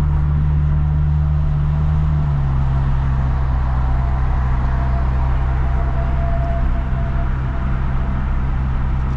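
Lexus IS350's 3.5-litre V6 cruising with a steady low exhaust drone through a muffler-delete axle-back and a mid-pipe without secondary cats, over road and tyre noise. The drone drops to a lower pitch about two seconds in.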